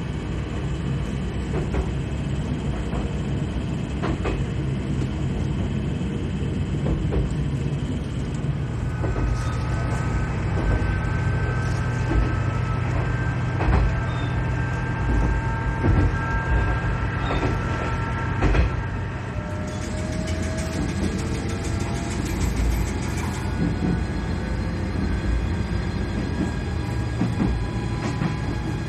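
Diesel railcar running along the line, heard from inside the car: a steady low engine drone with occasional clicks and knocks from the running gear. A thin high whine rises over it through the middle.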